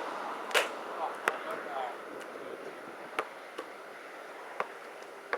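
Wind noise with five sharp knocks spread through, the loudest about half a second in, and a faint voice about a second and a half in.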